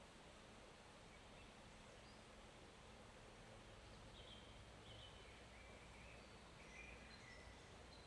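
Faint, steady flowing of a small forest stream, with several short, faint bird chirps in the second half.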